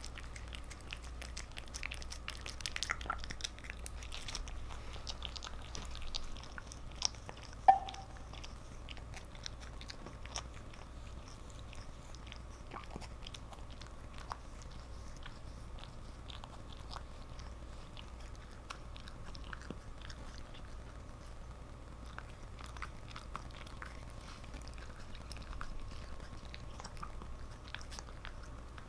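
A cat licking and eating a Churu paste treat: a long run of small wet clicks and smacks, with one brief high sound about eight seconds in, the loudest moment.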